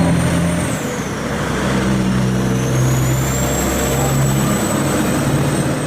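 A vehicle engine running, with a steady low hum and a high whine that dips about half a second in and then slowly climbs back.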